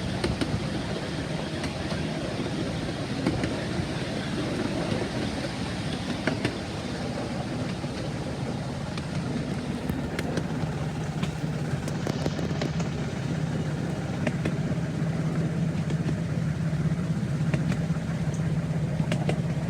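Steady running noise of a vehicle: a low hum over a rushing noise with scattered light clicks, the hum growing stronger and a little louder from about halfway through.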